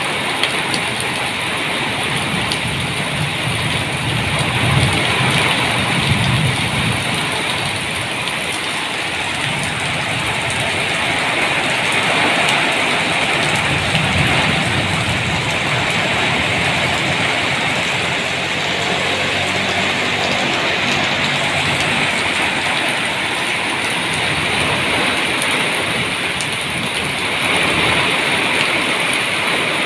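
Steady heavy rain falling, with low rumbles that swell and fade every few seconds.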